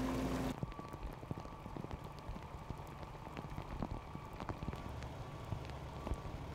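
Rain falling, with many separate drops ticking irregularly on a hard surface. A louder rushing sound cuts off about half a second in.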